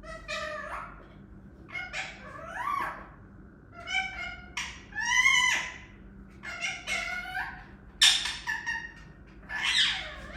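Pet parrot giving a string of about seven short, high-pitched calls with bending pitch, chattering and squawking in the way a talking parrot does.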